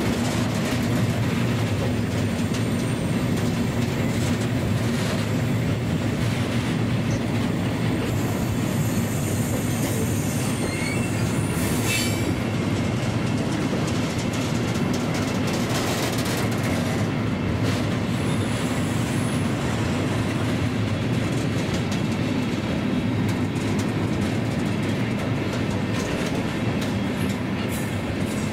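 Train running along the track with a steady low running noise. Faint high wheel squeals come in at times, and there is a sharp click about twelve seconds in.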